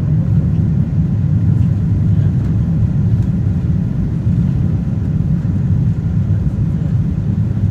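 Steady low rumble of a Boeing 777-200ER's engines and airflow, heard inside the passenger cabin.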